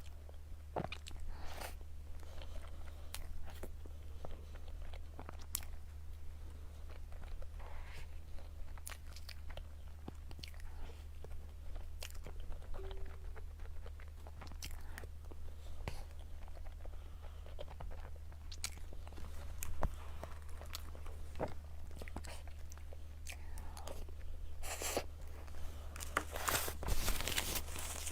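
Close-miked eating of cake or dessert: bites and chewing, with short scattered mouth clicks over a steady low hum. A denser run of crackling comes near the end.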